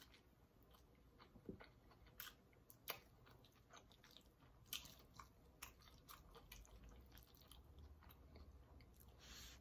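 Faint close-miked chewing of a mouthful of chicken: scattered wet mouth clicks and smacks, with a short breathy hiss near the end.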